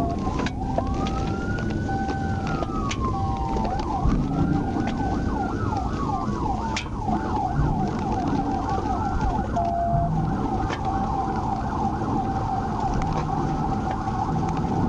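Police car sirens sounding during a pursuit: a slow wail rising and falling about every three seconds, overlapped by a faster yelping siren, over steady vehicle road noise.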